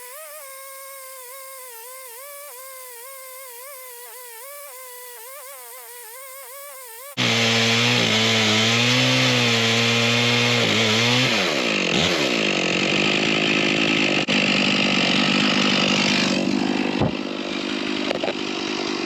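Stihl two-stroke chainsaw mounted in an Alaskan chainsaw mill, running under load as it rips lengthwise through a large white pine log. The sound is quieter and wavering at first, jumps much louder about seven seconds in, and the engine pitch drops about eleven seconds in as the saw bogs into the cut, with steady cutting noise after.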